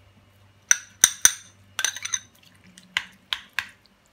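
Utensil clinking against a mixing bowl as chopped onion is tipped in. About four sharp, ringing clinks come in the first two seconds, followed by three softer taps.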